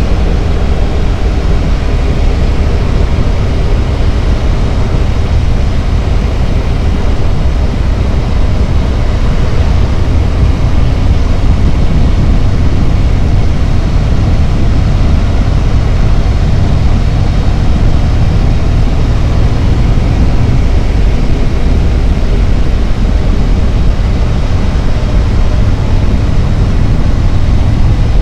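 Harley-Davidson Road Glide's V-twin engine running steadily at road speed, a loud, constant deep rumble mixed with rushing noise from the ride.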